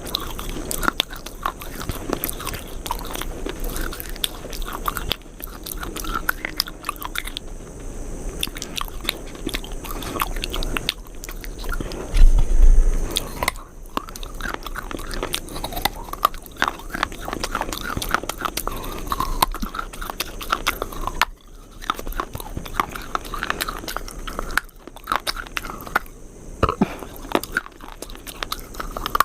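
Close-miked crunchy biting and chewing: a person crunching something brittle in the mouth, with dense, irregular crackling crunches throughout and a louder low bump about halfway through.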